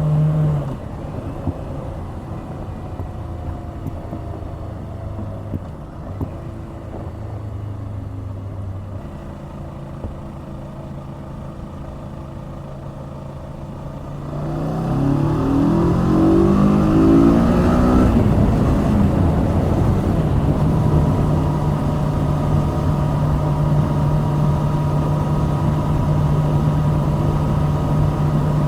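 Kawasaki Z650 649 cc parallel-twin engine on the move: throttle rolled off and coasting more quietly for about fourteen seconds, then accelerating with the pitch climbing in steps through the gears, and settling into a steady cruise for the last part.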